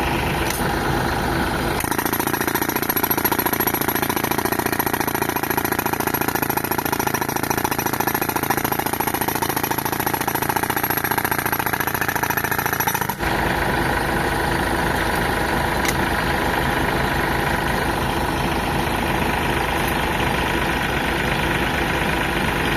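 Tractor engine running steadily, driving an air compressor for rock breaking. From about two seconds in, the low rumble drops and a high hiss is added; at about thirteen seconds it switches back abruptly.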